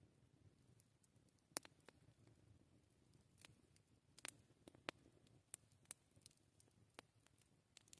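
Quiet wood campfire crackling: sparse, irregular sharp pops and snaps over a faint low rumble, the loudest pop about a second and a half in and a quick cluster of pops around halfway.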